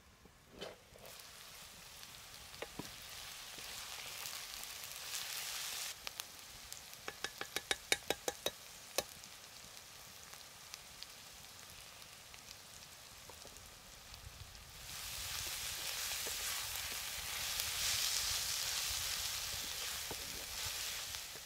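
Vegetables sizzling in hot oil in a cooking pan, a steady hiss, with a quick run of about a dozen sharp taps about a third of the way in. The sizzle grows louder over the last third.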